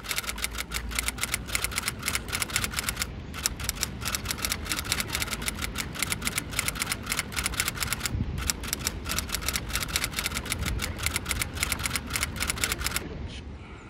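Rapid, even typing clicks like key presses, about six a second, with two short pauses, stopping about a second before the end.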